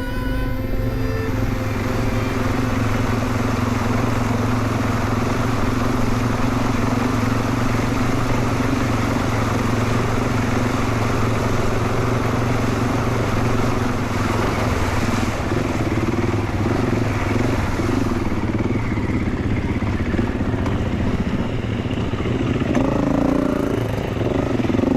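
A dirt bike's engine running steadily under way, with a constant rush of wind and road noise; the engine note wavers up and down a little in the last few seconds.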